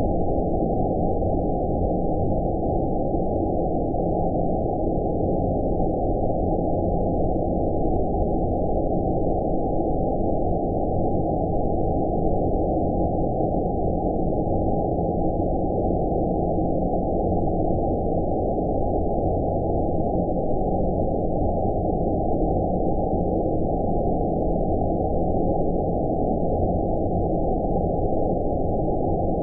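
Steady low, rumbling filtered noise, cut off above about 1 kHz with nothing higher, unchanging throughout: a synthetic 'space noise' sleep track, a dark low-pass-filtered form of white noise.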